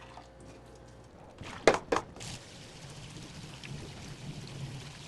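Two sharp clanks, then cold tap water starts running steadily over just-cooked glass noodles to cool them.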